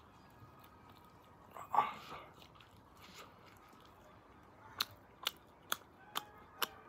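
Someone chewing a mouthful of pizza: a brief louder mouth sound about two seconds in, then from about halfway a steady run of sharp wet clicks, about two a second, in time with the chewing.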